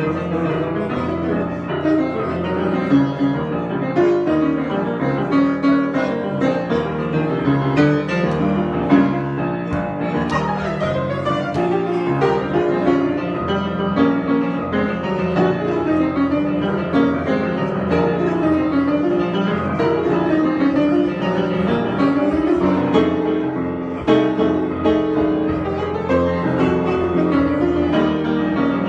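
Solo piano played in an improvisation, with a dense, continuous flow of notes and a brief drop in loudness just before the end.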